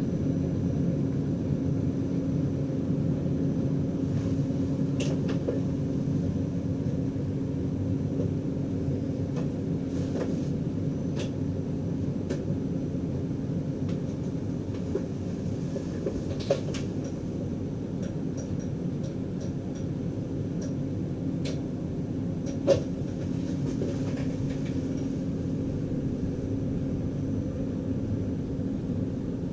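Cab of an NS DDZ double-decker electric train running along the line: a steady low rumble with a constant hum and a faint high whine, broken by a few sharp clicks, two of them louder, about halfway and two-thirds through.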